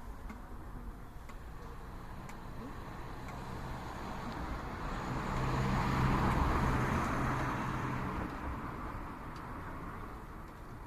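A car passing by: the engine hum and tyre noise grow louder, are loudest about six seconds in, then fade away.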